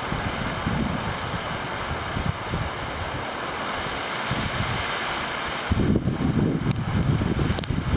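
Heavy rain pouring down in a strong windstorm, a dense steady hiss, with wind gusting on the microphone; the gusts rumble harder about six seconds in.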